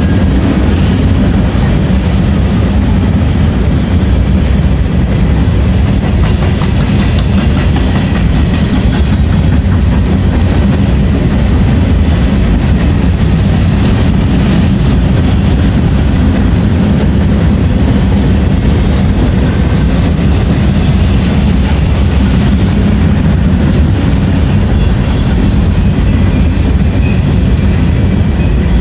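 A Norfolk Southern freight train of covered hopper cars rolling past close by: a steady, loud rumble of steel wheels on the rails that never lets up.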